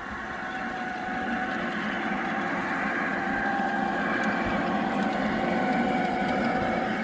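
A G-scale garden-railway model locomotive running, its electric motor and gearing giving a steady whine that grows slightly louder as it comes closer, over the rumble of its wheels on the track.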